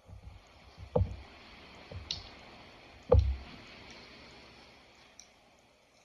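Close-up eating sounds of someone gnawing on mango: two dull thumps about two seconds apart, with a short wet click between them.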